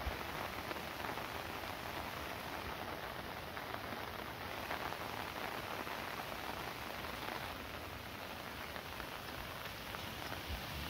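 Steady rain falling, an even hiss with no pauses. A low rumble comes in near the end.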